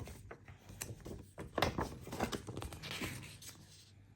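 Paper rustling with light taps and knocks as a printed instruction manual is handled and opened, the rustle dying away near the end.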